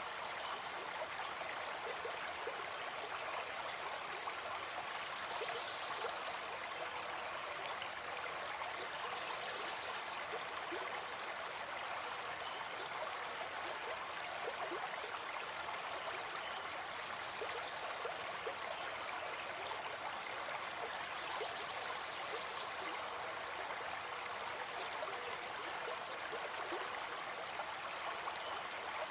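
Shallow forest stream flowing steadily over stones: an even rushing and babbling of water.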